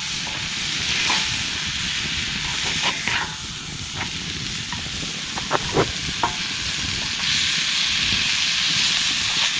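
Peppers, onions, broccoli and smoked sausage sizzling in a hot cast iron skillet, with a few short taps and scrapes of a utensil stirring them about five to six seconds in. The sizzle grows louder about seven seconds in.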